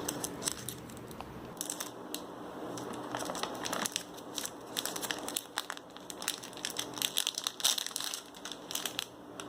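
Plastic snack packet crinkling and crackling as it is handled, a dense run of sharp crackles.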